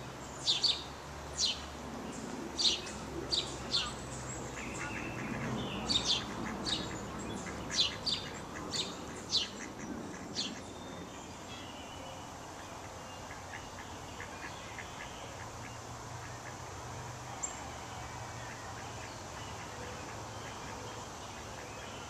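A bird giving a run of short, sharp, high chirps, about one a second, that stops about ten seconds in. After that only faint background bird calls and a low steady hum remain.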